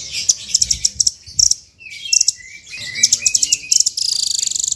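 Songbird singing a fast, varied song of quick high chirps, with a lower whistled phrase about two seconds in and a rapid buzzy trill near the end.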